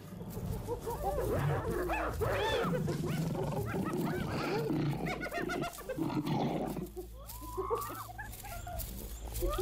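Hyenas and lions clashing: a clamour of many short rising-and-falling yelps and cackles over deep growling, then from about seven seconds in a few longer rising whoops.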